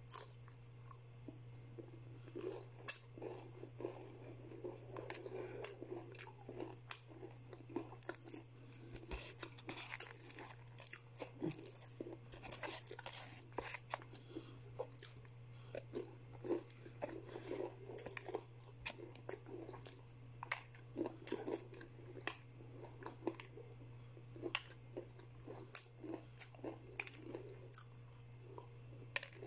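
Close-up chewing and biting of crispy fried chicken: irregular crunches, crackles and wet mouth sounds, over a steady low hum.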